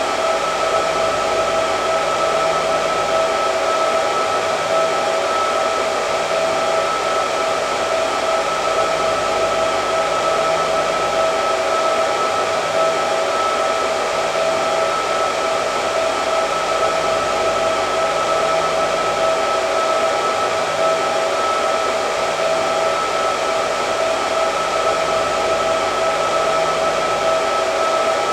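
Hair dryer running continuously at a steady speed: an even rush of air with a steady motor whine over it.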